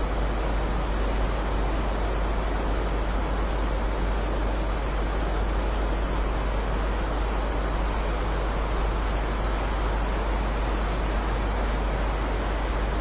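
Steady heavy rain: an even, unbroken hiss with no single drops or thunder standing out.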